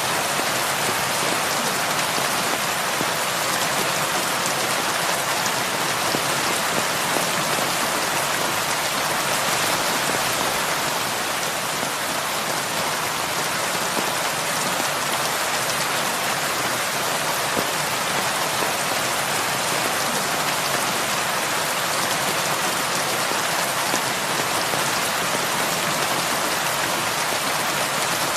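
Heavy rain falling steadily, a dense even hiss of many raindrops with no thunder or breaks.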